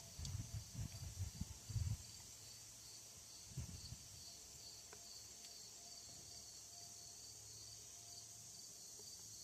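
Low knocks and bumps from hands working on parts, in a cluster over the first two seconds and again briefly around three and a half seconds in, over a steady rhythmic chirping of crickets.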